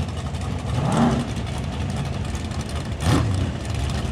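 Drag-race cars idling at the start line with a steady low engine rumble, and two short throttle blips, one about a second in and one about three seconds in.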